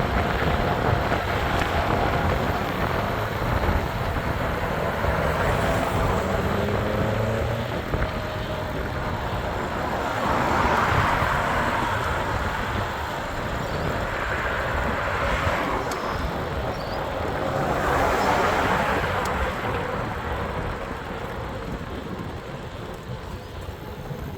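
Road traffic noise: vehicles pass, swelling three times in the second half, over a steady low rumble.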